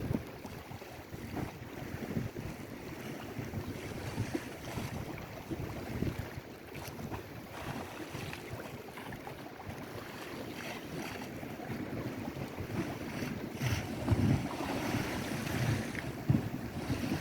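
Lake Erie waves washing on the shore, with wind gusting on the microphone; a little louder near the end.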